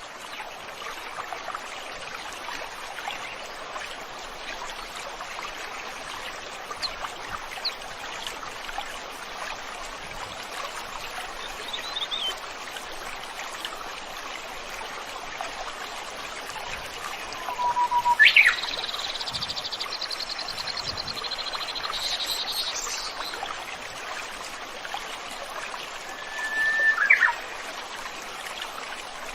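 A stream flowing steadily, with wild birds calling over it: a few short chirps, then a loud rising call about 18 seconds in that runs into a high, rapid trill lasting about four seconds, and another loud call near the end.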